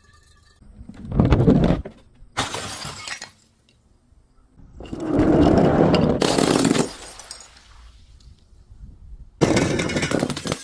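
Glass breaking and crunching in four separate bursts, the third the longest at about two seconds, the last starting near the end.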